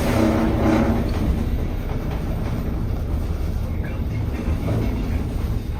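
Steady low rumble of a moving vehicle heard from inside, with a humming tone that fades out about a second in.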